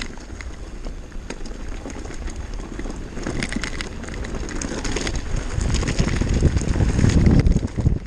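Downhill mountain bike clattering over a rocky trail, its frame and parts rattling with many quick knocks, over a rumble of wind on the microphone. The rumble and rattling grow louder over the last few seconds.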